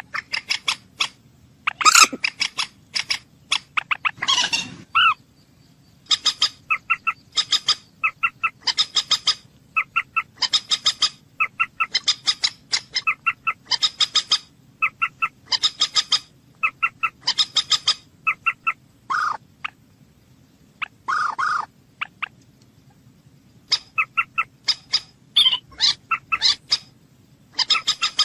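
Moorhen calling: short, sharp notes repeated in quick runs, broken by brief pauses.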